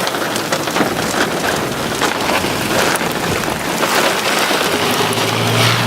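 Heavy rain falling hard on a vehicle, a dense, steady hiss of drops with no letup. A low steady hum comes in near the end.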